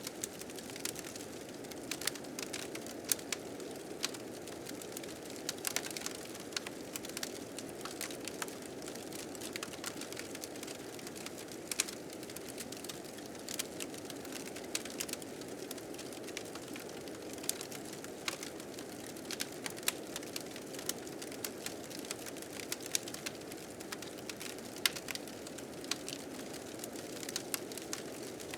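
Blizzard wind blowing with a steady low rush, with a wood fire crackling over it in frequent, irregular sharp pops.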